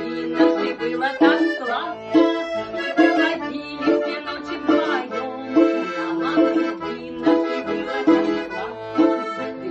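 Accordion playing the instrumental break of a song: a melody over a regular bass-and-chord accompaniment.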